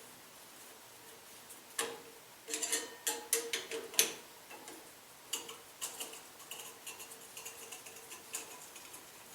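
Metal hand tools clicking and knocking on the truck's shock mount, then a long run of quick, light, evenly spaced ticks, while a hose clamp in the way of the shock is worked loose.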